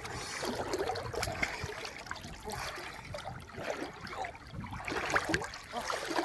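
River water running and trickling, with scattered small knocks and splashes.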